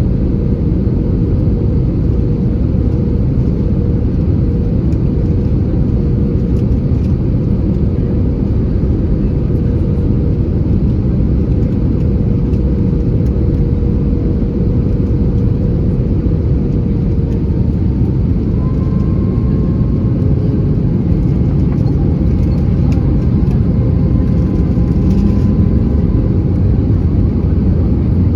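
Steady rumble of an Airbus A320's CFM56 engines and airflow heard inside the cabin during descent. Faint whining tones come and go over it, with a short rising whine near the end.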